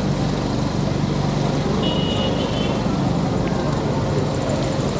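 Steady vehicle engine and traffic noise in a street, with a brief high tone about two seconds in.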